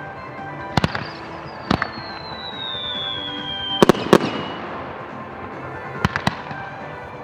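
Aerial fireworks bursting: sharp bangs, single or in quick pairs, about every one to two seconds. A whistle falls steadily in pitch and ends in the loudest pair of bangs about four seconds in. Background music plays underneath.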